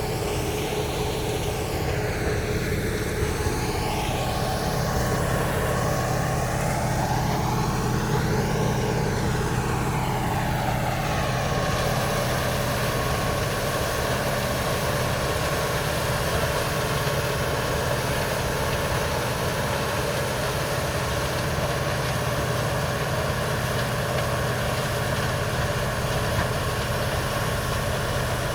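Heavy engine of road-repair machinery running steadily. Its hiss sweeps up and down for the first ten seconds or so, as if the machine is moving, then holds even.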